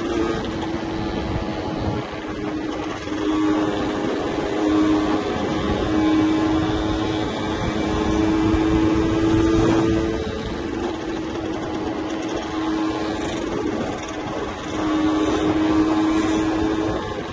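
Yamaha 125ZR's single-cylinder two-stroke engine under way, its note holding a fairly steady pitch and swelling louder several times as the throttle is opened and eased.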